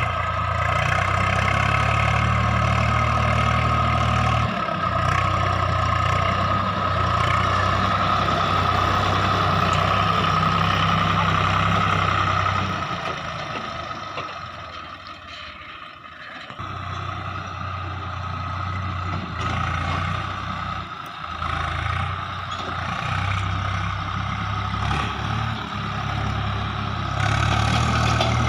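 Heavy diesel engine running steadily, dropping away for a few seconds about halfway through before picking back up.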